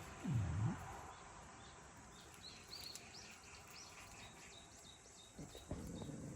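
A small bird chirping repeatedly in the background, about three short high chirps a second. A brief low sound that dips and rises in pitch comes near the start, and a few short low sounds come near the end as the animals start scuffling.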